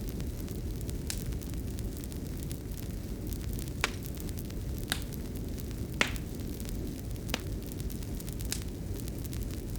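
Fireplace fire burning with a steady low rumble and sharp crackles and pops every second or so.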